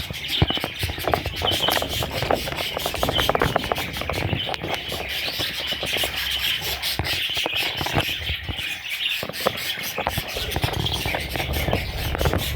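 Budgerigar chicks calling continuously, a dense squealing chirp chatter, with many small clicks and scratches throughout.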